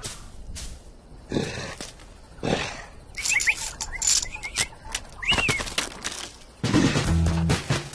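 Cartoon bird sound effects: swishing wing flaps and a few short, quick chirps, with some sharp clicks between them. A music cue comes in near the end.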